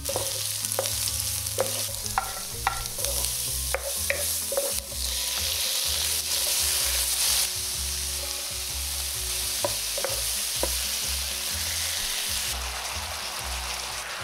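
Food sizzling in hot oil in a stone-coated frying pan while a wooden spatula stirs it and taps against the pan. Sliced onions are sautéing, then chorizo and chicken pieces are frying. The sizzle grows louder about five seconds in and stays steady after that.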